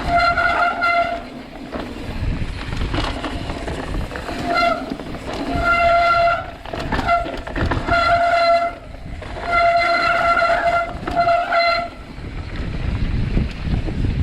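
Brakes squealing in repeated bursts of about half a second to a second, a steady high squeal at one pitch, over a low rumble of tyre and wind noise.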